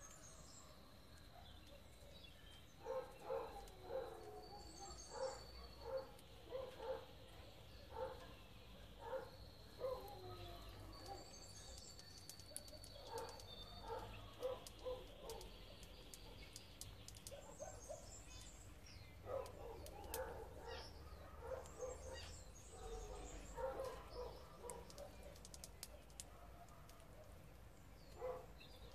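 Faint bird sounds: two bouts of short, low, repeated notes about two a second, with thin high whistles and a few faint high chirps between them.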